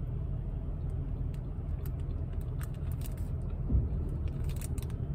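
Steady low rumble of a car's engine idling, heard from inside the cabin, with faint scattered crinkles from the plastic wrapper of an onigiri being handled while eating.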